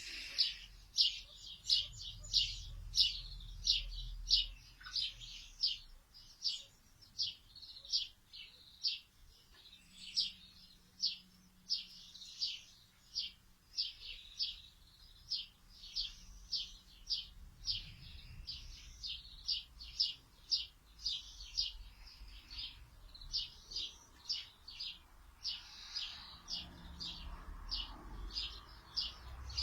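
A bird chirping over and over, short high chirps at about two a second, keeping an even pace throughout.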